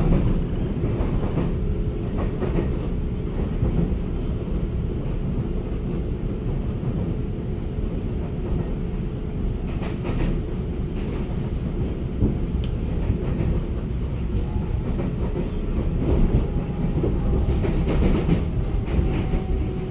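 Taiwan Railway EMU900 electric multiple unit running along the line: a steady rumble of wheels on track with a faint steady tone and occasional clicks from the rails.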